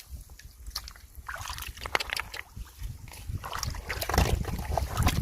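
Shallow floodwater in a rice field sloshing and splashing in short, irregular bursts as someone moves and works in it, over a steady low rumble.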